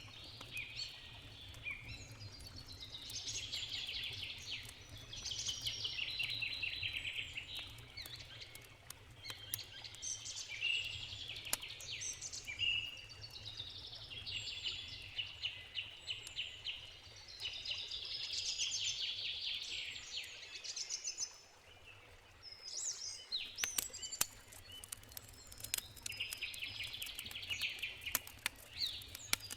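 Songbirds singing repeated trilling phrases every few seconds over a wood campfire crackling with sharp pops, which come thick and fast in the last several seconds. A steady low rumble sits underneath and briefly drops away a few seconds past the middle.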